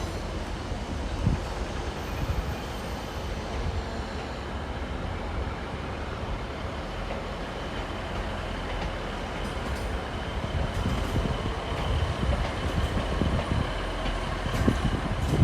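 A train moving through a railway station: a steady low rumble that grows slightly louder in the last few seconds.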